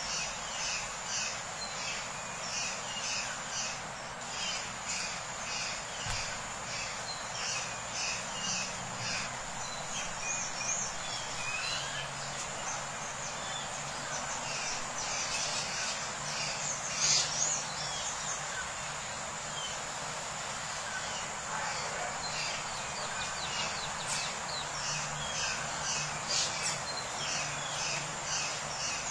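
Birds chirping in quick repeated series of short high notes, over a steady high-pitched whine and a background hiss.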